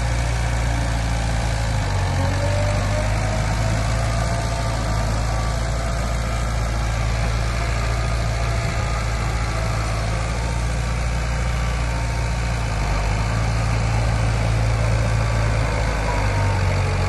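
Heavy diesel engine of earthmoving machinery running steadily with a low drone, with a faint whine rising slightly in pitch a couple of seconds in.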